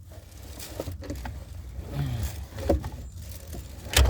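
Scattered clicks and knocks of hands and tools working in a pickup's dashboard around the radio, ending in a sharp, louder knock.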